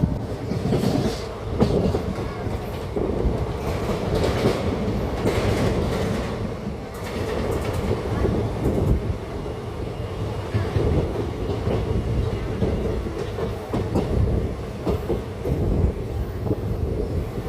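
Passenger train running at speed, heard from on board: a steady low rumble of the wheels on the track with irregular clattering knocks as they pass over rail joints.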